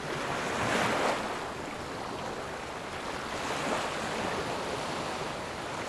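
Sea waves washing and breaking, a steady rush of surf with a louder surge about a second in.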